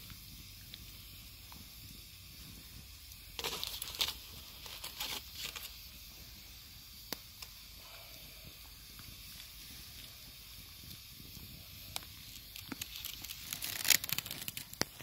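Campfire hissing with occasional sharp crackles, and bursts of rustling and handling noise about three and a half seconds in, around five seconds, and again near the end.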